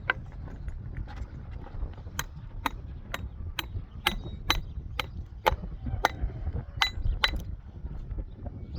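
Hammer blows, about two a second in a steady run from about two seconds in, each a sharp knock, some with a short metallic ring, over a steady low rumble.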